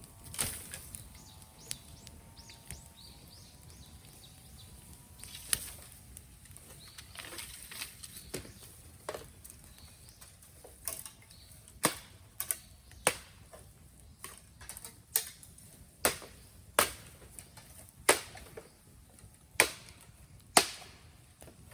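Raw green bamboo burning in a bonfire, giving off sharp cracks and pops: a few scattered ones at first, then about one a second through the second half.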